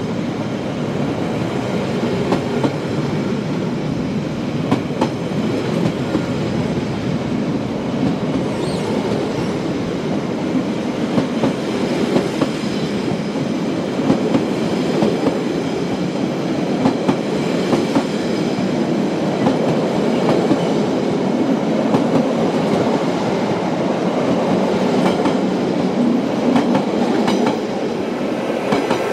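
Car-carrying wagons of a Furka car-shuttle train rolling past at close range: a steady rumble of steel wheels on rail, with scattered clicks and clatter from the wheels.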